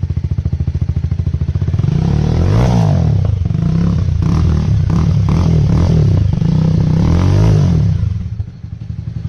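Jawa Perak's single-cylinder engine running through an aftermarket Razor exhaust, idling and revved up several times with the pitch rising and falling, then settling back to idle near the end.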